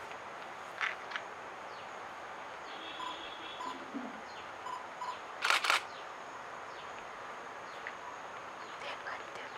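A quick burst of camera shutter clicks a little past halfway, over outdoor ambience with a few short, faint bird calls.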